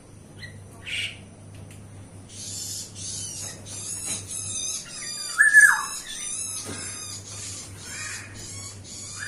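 Birds calling: a rapid, high-pitched chattering starts about two seconds in and runs on, with a single loud, harsh squawk falling in pitch about halfway through.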